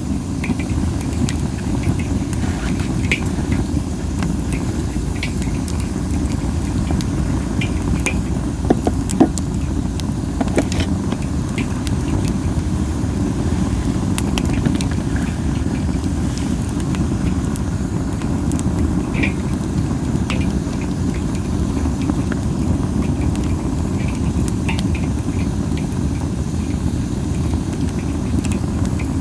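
Wood fire of Japanese spindle (masaki) branches burning, with scattered sharp pops and crackles over a steady low rumble.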